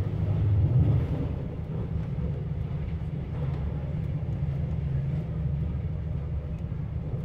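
Passenger train running at speed, heard from inside the carriage: a steady low rumble of wheels on track, louder in the first second as an oncoming train rushes past alongside.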